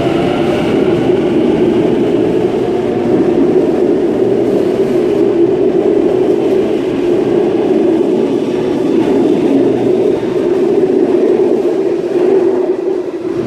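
Waratah Series 1 electric suburban train moving along the platform: a loud, steady rumble of wheels and traction equipment.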